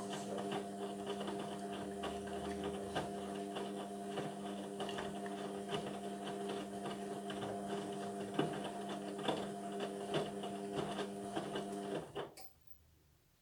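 Indesit washing machine's drum motor turning the drum in the wash phase: a steady hum with light, irregular knocking. It stops suddenly about twelve seconds in, the pause between drum turns.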